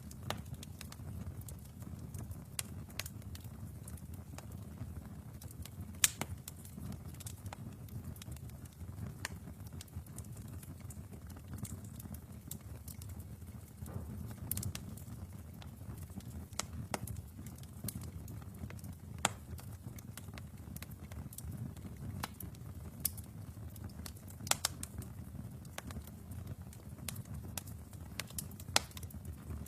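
Wood fire burning in a fireplace: a steady low rumble with irregular sharp crackles and pops, the loudest pop about six seconds in.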